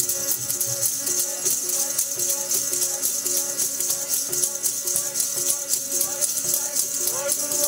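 Sikh kirtan music: a steady melody over fast, even jingling percussion.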